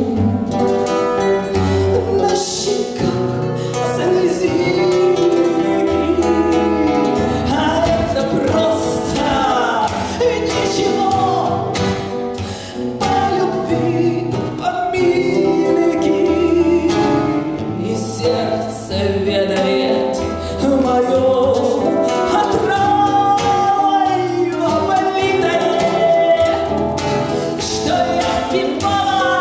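A woman singing a Russian romance over instrumental backing, with a sung melody that glides and wavers above repeated low bass notes.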